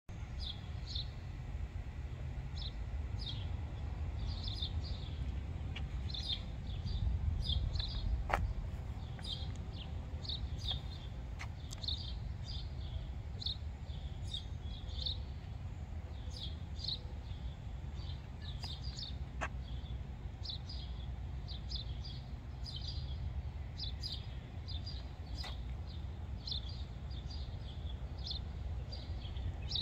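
Small birds chirping on and off, a steady run of short high chirps a few times a second, over a low steady outdoor rumble, with a couple of faint clicks.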